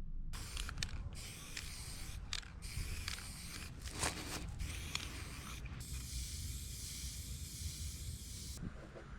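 A run of sharp mechanical clicks and rattles, followed by a steady high hiss lasting about two and a half seconds that cuts off suddenly.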